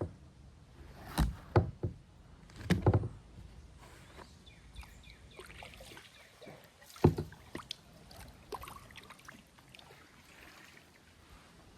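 Kayak paddling: paddle strokes with a few hollow knocks of the paddle against the hull, clustered about a second to three seconds in and again about seven seconds in, with water dripping and splashing between.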